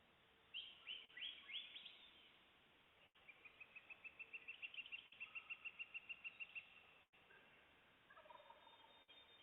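Faint dawn chorus in woodland: a songbird gives a run of falling whistled notes, then a rapid trill of about five high notes a second. Near the end a wild turkey gobbles briefly in the distance.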